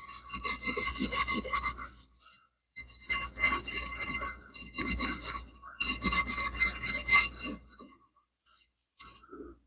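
A greasy metal clutch part being scrubbed clean by hand with cleaner, as scratchy rubbing. It comes in two long spells with a short break after about two seconds, and stops about two seconds before the end, apart from one brief scrape.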